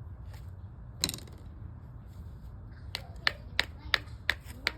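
A rock striking stone to chip an arrowhead: one sharp tap about a second in, then from about three seconds in a steady run of sharp taps, about three a second.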